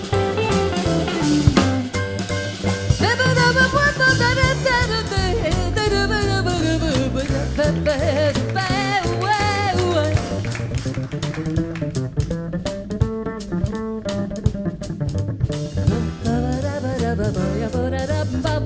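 A jazz sextet playing a swinging, up-tempo tune: walking bass and drum kit under guitar and piano, with a wavering lead melody line on top.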